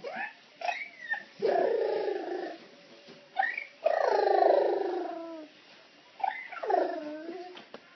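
A funny vocal noise made over and over: long wavering calls about a second each, three loud ones, with short squeaky rising and falling glides between them.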